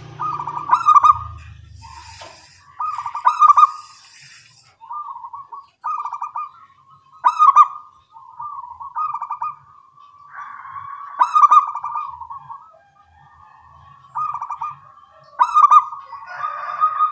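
Zebra doves (perkutut) cooing, several birds answering one another with short, rapid, trilling coo phrases that follow each other every second or two and sometimes overlap.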